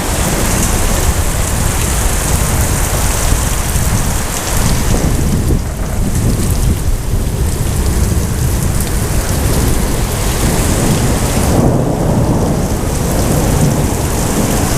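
Heavy rain pouring steadily with thunder rumbling low underneath throughout.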